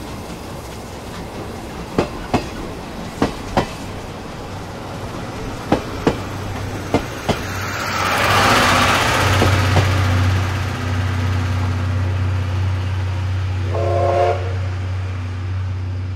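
Passenger coaches of a steam-hauled train rolling past at low speed, their wheels clacking over rail joints in pairs. A rush of noise comes as the last coach goes by, then a steady low hum as the train pulls away, with a brief whistle-like tone near the end.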